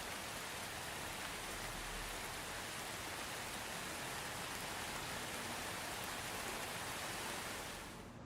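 Steady soft rain, an even hiss of falling rain with no distinct drops standing out, which drops away briefly at the very end.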